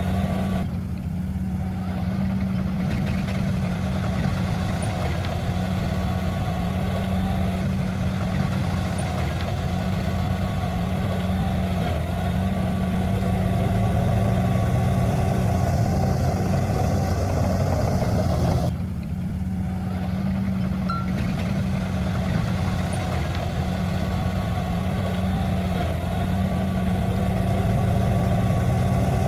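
Heavy diesel engine of earthmoving equipment running steadily at constant speed, with a brief dip about two-thirds of the way through.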